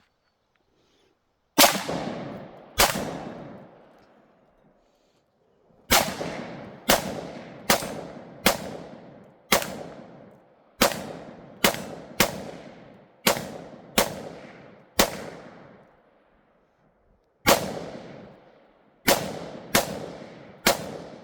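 AR-15 rifle firing 5.56 mm rounds semi-automatically, about seventeen single shots, each followed by a long echo. They come in three strings: two shots, then about eleven at roughly one a second, then four more near the end.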